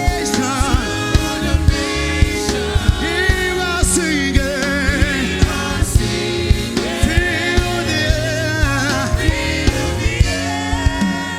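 Gospel worship music: voices singing with vibrato over sustained keyboard chords and a bass line, with a steady beat of about two strikes a second.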